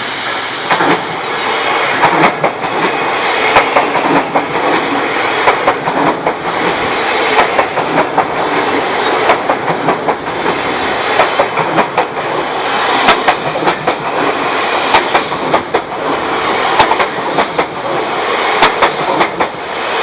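Odakyu 3000-series electric commuter train passing close by, a steady rumble of the cars with a continual run of sharp clacks as its wheels cross rail joints.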